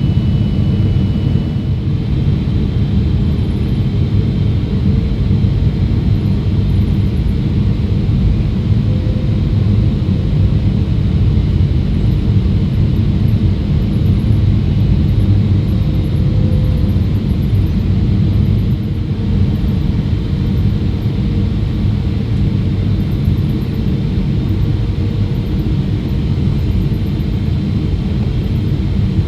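Boeing 777-300ER airliner noise heard from inside the cabin: a loud, steady rumble of engines and airflow.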